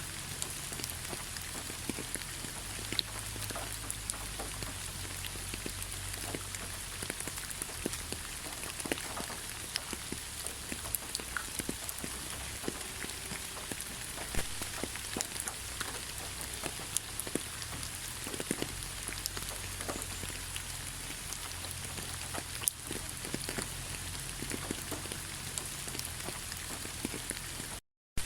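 Steady rain falling through a pine forest, a constant hiss with many close drops pattering individually. The sound cuts out completely for a moment near the end.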